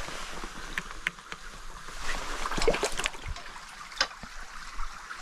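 Shallow stream water running, broken by scattered splashes and knocks from people wading through it.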